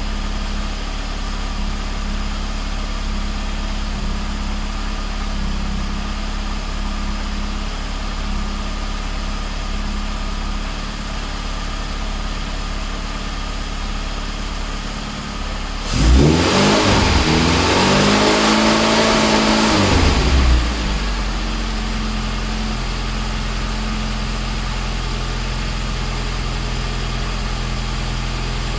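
Classic Mini's newly fitted A-series four-cylinder engine idling steadily on its first run, timing and mixture not yet set. About halfway through it is revved once for a few seconds, rising in pitch and falling back to idle.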